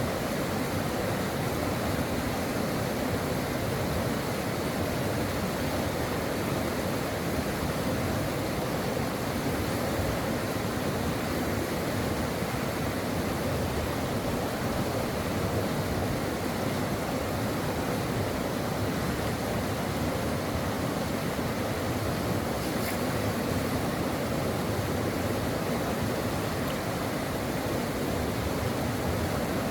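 Stream water rushing steadily over rocks, an even, unbroken flow.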